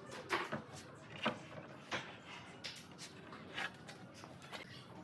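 A series of light, irregularly spaced knocks and clicks, about seven in five seconds.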